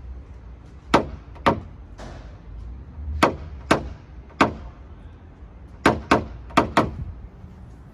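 Sharp hammer taps, nine of them, mostly in quick pairs about half a second apart.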